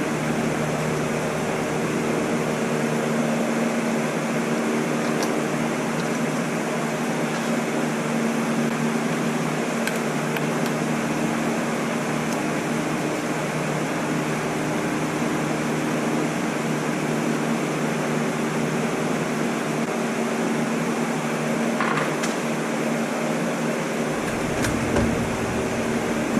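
Steady whirring hum of a fan or blower motor, with a few faint clicks and a soft knock near the end.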